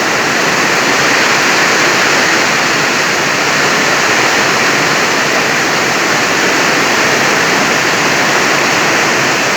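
Heavy rain pouring down steadily: a loud, dense, even hiss with no letup.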